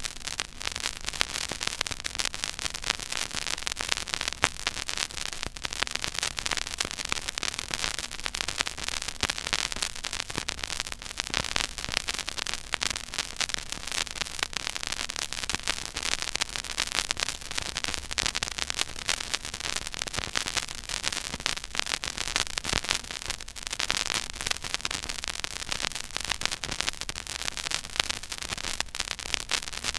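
Stylus tracking the silent groove of a 12-inch vinyl record: steady surface hiss with dense crackle and scattered sharper pops, over a faint low rumble.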